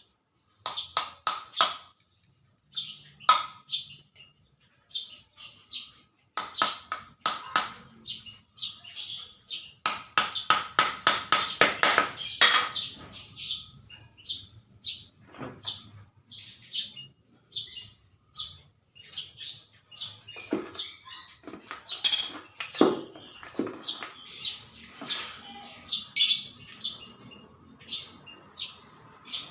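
Small birds chirping: many short, sharp high calls in quick succession, with a fast run of repeated chirps about ten seconds in.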